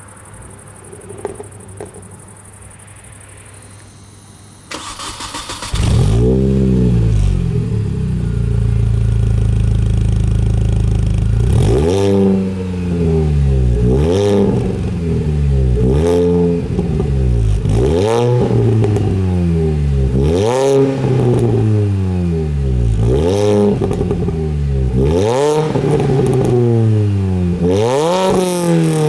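A 2003 Mini Cooper S R53's supercharged four-cylinder engine runs through a Milltek exhaust with a Janspeed manifold and a 200-cell cat. Near the start the starter whirrs for about a second, then the engine catches and idles steadily. From the middle on it is revved in a series of quick blips, about one every two seconds, each sweeping up and falling back.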